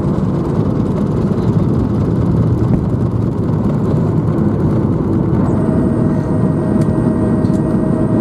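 Boeing 737-800 cabin noise during taxi after landing: the steady low rumble of its CFM56 engines at idle and the airflow around the fuselage. About five and a half seconds in, a steady thin whine joins the rumble and holds.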